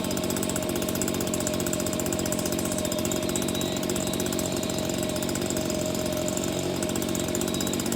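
A small motor or engine running steadily with a fast, even buzz and a steady hum.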